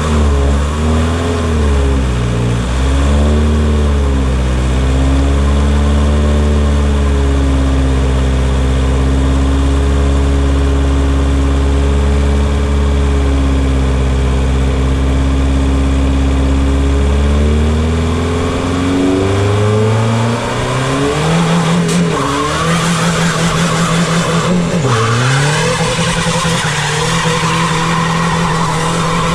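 Tuned twin-turbo TDI diesel engine held at steady revs, then revving up about two-thirds of the way through to a higher steady pitch, with the tyre squeal and skidding of a burnout.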